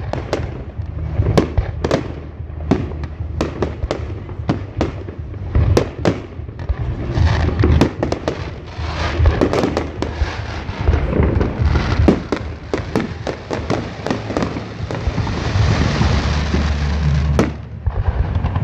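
Fireworks going off in quick, irregular succession: many sharp bangs and cracks, with a dense crackling hiss for a couple of seconds near the end, over a steady low rumble.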